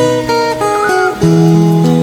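Music: a plucked guitar playing a melody of held notes.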